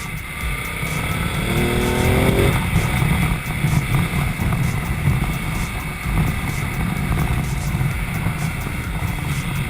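Ducati Multistrada motorcycle engine accelerating, its pitch rising for a second or so about a second in, then running on at speed under a steady rush of noise.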